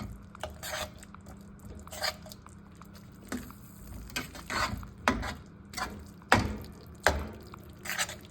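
A spoon stirring a thick walnut and pomegranate stew in a pot, with irregular scrapes and knocks against the pot about every half second to second.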